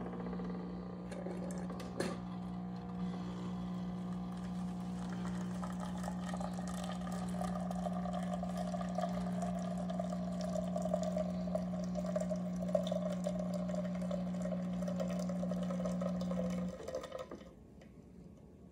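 Zulay Magia super-automatic espresso machine dispensing a cappuccino: a steady pump hum, with liquid pouring into the cup from about five seconds in. Both stop near the end.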